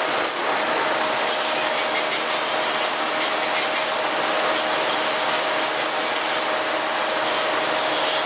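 KB-3 "Profi" three-spindle log rounding machine running: a steady mechanical noise with a steady whine held through it.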